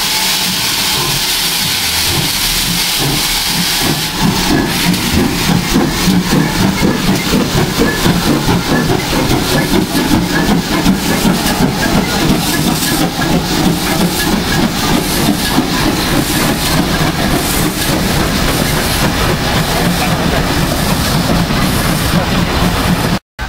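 Steam locomotive: a steady hiss of escaping steam, then from about four seconds in a louder run of exhaust beats in an even rhythm as it works along the line.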